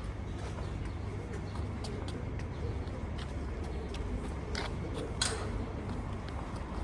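City street ambience: a steady low rumble of traffic, with a few short sharp clicks and taps, the loudest about five seconds in.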